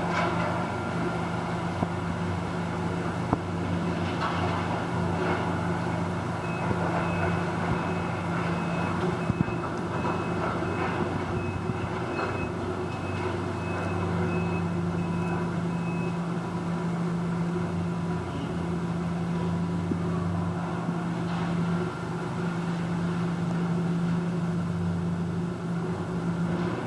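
Diesel engine of heavy demolition machinery running steadily, with a reversing alarm beeping about twice a second for several seconds partway through and a few sharp knocks in the first half.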